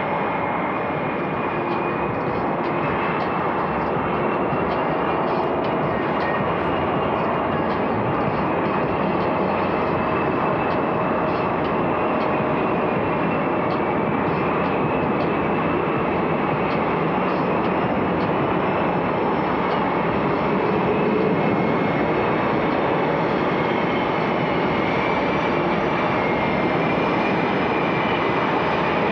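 F/A-18 Super Hornet jet engines running at taxi idle, a steady turbine roar with a faint high whine.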